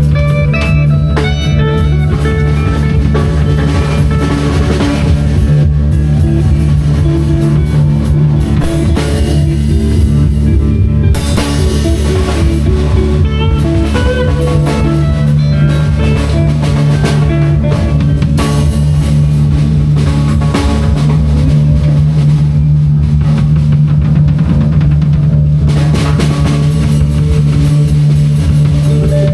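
Live improvised band jam: a drum kit keeps a continuous beat under guitar and other sustained pitched instruments, playing steadily throughout.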